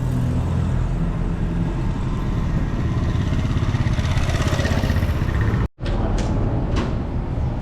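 Street traffic: motor vehicle engines running close by, with a vehicle passing and speeding up around four seconds in. The sound drops out for an instant just before six seconds, then the traffic continues with a few sharp knocks.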